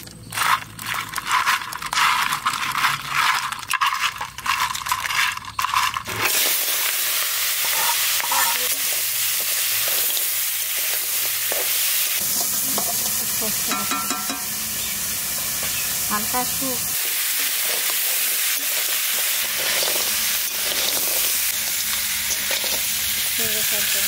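Wet clicking and squishing of crab pieces being mixed by hand with turmeric and salt. About six seconds in it switches suddenly to a steady sizzle of the crab pieces frying in mustard oil in a wok, a spatula stirring them.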